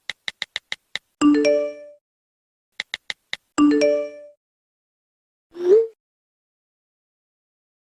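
Messaging-app sound effects: a run of quick typing clicks followed by a short bell-like notification chime, and then the same again. About five and a half seconds in comes a single short rising pop.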